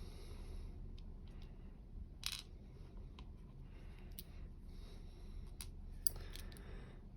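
Small metal lock parts being handled while pins are taken out of a dimple lock's pin chambers: scattered light clicks, the sharpest about two seconds in and twice near six seconds, with short soft scrapes between them over a low steady hum.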